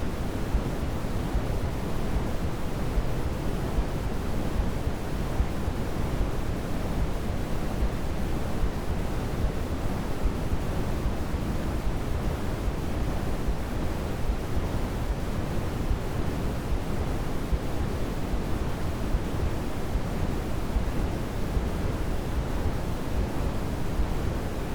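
Steady white noise played as a baby sleep aid: an even, unbroken hiss, heavier in the low end and thinning toward the treble, closer to pink noise.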